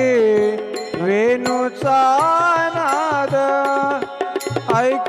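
Marathi gavlan devotional folk song: a male singer draws out a long wordless note that slides and wavers in pitch, over repeated hand-drum strokes and sharp cymbal clashes.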